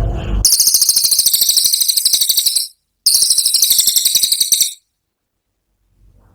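Cililin bird singing its rapid, high-pitched 'tembakan' trill: two bursts of about two seconds each with a brief pause between, at many pulses a second. A short low rumble fades out just as the first trill begins.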